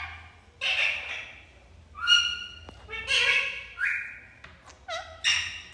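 A pet green parrot making a series of short calls, about half a dozen, some held level and some dropping in pitch.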